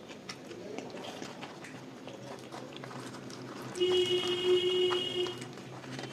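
Close-miked chewing and small wet mouth clicks from eating luchi with curry. About four seconds in, a steady tone lasting about a second and a half rises above the chewing as the loudest sound.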